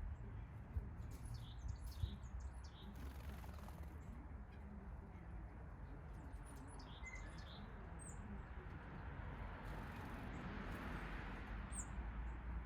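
Small backyard songbirds chirping in short, high notes, scattered and in little clusters, over a steady low rumble.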